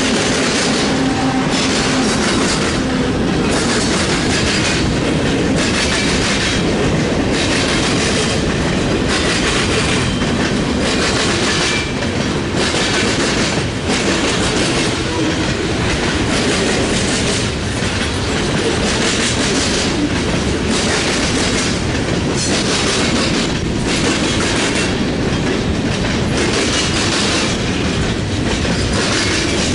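Freight train cars rolling past close by, with steel wheels clattering over the rails in a steady rush. The sound dips in the treble about every one and a half to two seconds as each car goes by.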